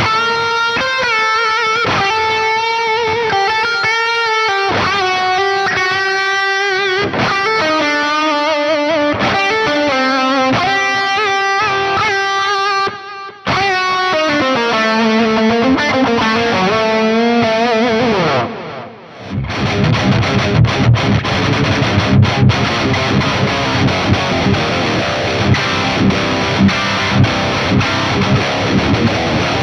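Electric guitar played through a Boss Katana 100 MkII amp. For the first eighteen seconds or so it plays a single-note melodic lead with vibrato and bends. After a short drop it switches to a heavily distorted rhythm riff with sharp, regular accents.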